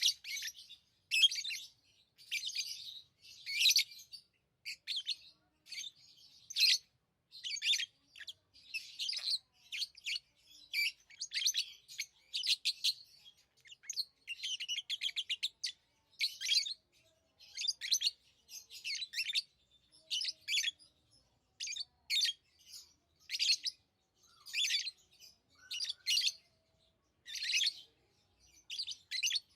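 Pet lovebirds chirping: a steady series of short, high-pitched chirps, roughly one or two a second, with a quick run of rapid notes about halfway through.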